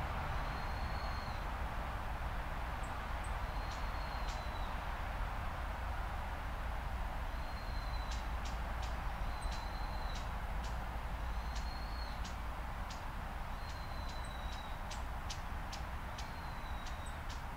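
521 series electric train running slowly in to a station stop, a steady rumble and hiss. Short high whistling tones sliding slightly down recur every second or two, and sharp clicks come thickly from about eight seconds in.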